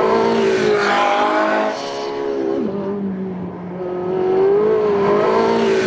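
Porsche 918 Spyder's naturally aspirated V8 running hard at high revs on track. Its pitch falls sharply about two and a half seconds in, holds lower for about a second, then climbs again.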